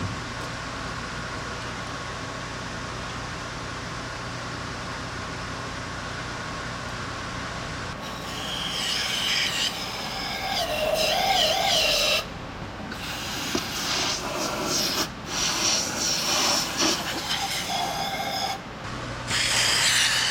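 Steady low workshop hum, then from about eight seconds in, irregular scraping and rubbing of tools on metal with squeaky, wavering tones that break off abruptly a few times.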